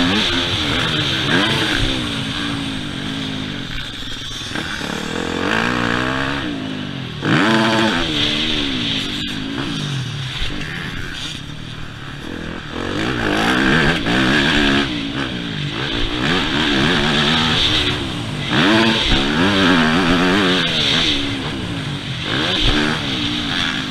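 Yamaha YZ250F motocross bike's single-cylinder four-stroke engine revving hard, its pitch climbing and dropping again and again as the throttle is opened and closed around the track.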